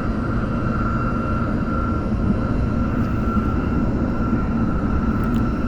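Steady running noise heard inside a Shinkansen bullet-train carriage at speed: an even rumble with a constant hum and a high, steady whine.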